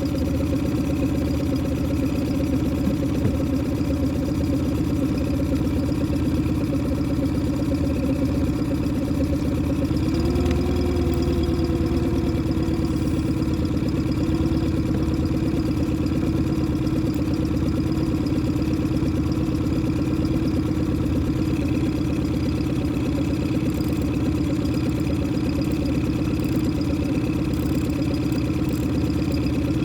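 Boat engine running steadily at low revs, briefly rising in pitch about ten seconds in and then settling back.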